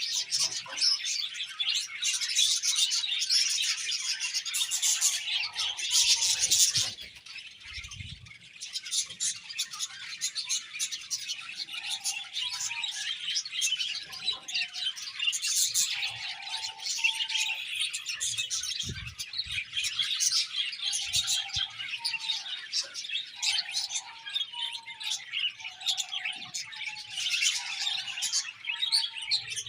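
A flock of budgerigars chirping and chattering continuously, many birds calling over one another in rapid high warbles and tweets.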